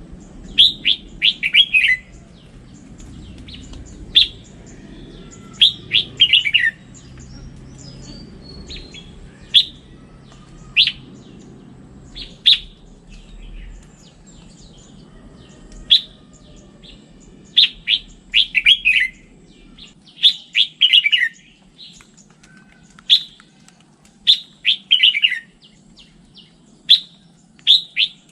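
Red-whiskered bulbul singing: short phrases of four or five quick notes falling in pitch, repeated every few seconds, with single sharp call notes between them.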